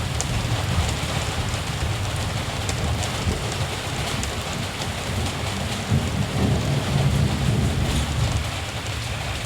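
Steady rain hissing, under a low rumble of distant thunder that swells about six seconds in.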